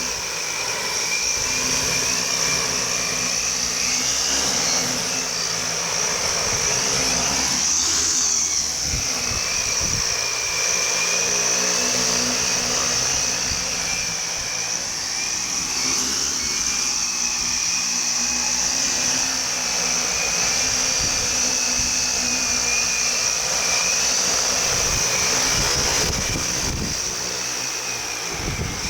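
Large multirotor drone's electric motors and propellers whining steadily, the pitch wavering slightly as it flies, with wind buffeting the microphone in gusts.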